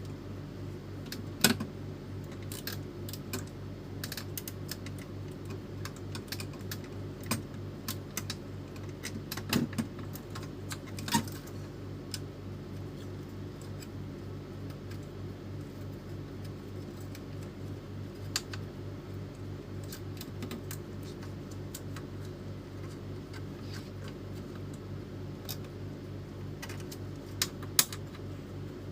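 Scattered clicks, taps and small rattles of printer parts being handled during a repair, over a steady low hum.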